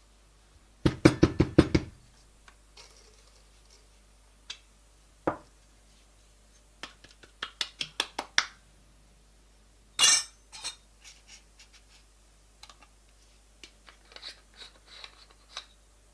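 Coffee-making equipment being handled, with sharp knocks and metal-and-glass clinks. A quick run of about eight knocks comes near the start, a run of lighter taps comes around the middle, and a loud bright clink comes about ten seconds in, followed by smaller ticks.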